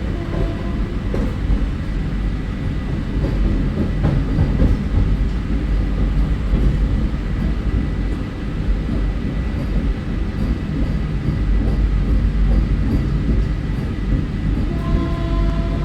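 Vande Bharat Express electric train set running along the track with a steady rumble. A brief tone sounds near the end.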